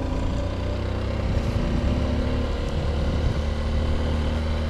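Honda XR150L motorcycle's single-cylinder engine running steadily at an even pitch while riding on a gravel road.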